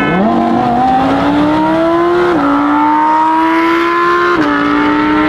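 Cadillac CT5-V Blackwing's supercharged 6.2-litre V8 accelerating hard, heard from inside the cabin. The pitch climbs steadily, drops at an upshift about two and a half seconds in, climbs again, and drops at another upshift near the end.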